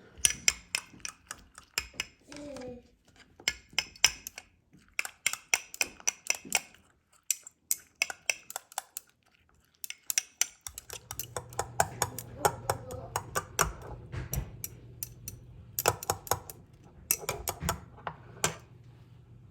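Rapid clinking and tapping of utensils against dishes, in uneven runs of quick strikes. A low steady hum comes in about halfway.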